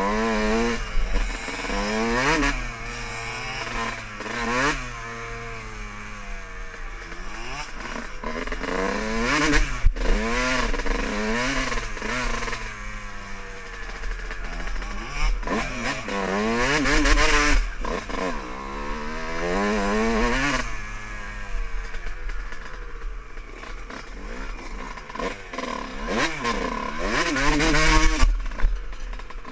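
Dirt bike engines revving up and easing off again and again, their pitch climbing and dropping many times as they ride, at times two engines heard together.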